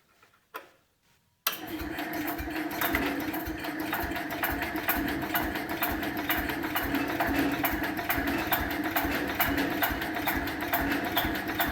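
Cub Cadet 125's 12 hp single-cylinder Kohler engine starting up on a jump pack. After a faint click it kicks in suddenly about a second and a half in and keeps going with a steady, rapid, even beat.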